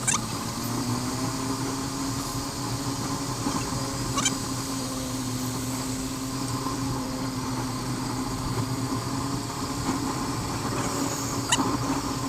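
Motorcycle engine running at a steady pitch while riding, with three brief sharp clicks along the way.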